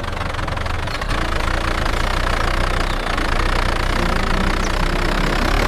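A tractor engine running steadily with a low rumble, slightly louder from about a second in.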